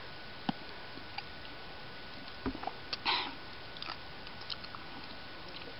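Faint mouth sounds of someone chewing jelly beans: small scattered clicks, with a short sniff about three seconds in.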